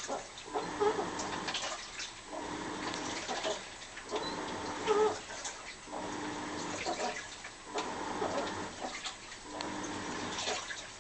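Washing machine agitating a load, water sloshing as the drum or pulsator reverses about every two seconds. Each stroke brings a wavering, moan-like squeal from the machine.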